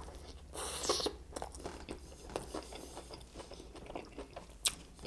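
Close-miked biting and chewing of a KFC fried chicken sandwich. There is a crisp crunch about half a second in, then steady chewing with small wet clicks, and a single sharp click near the end.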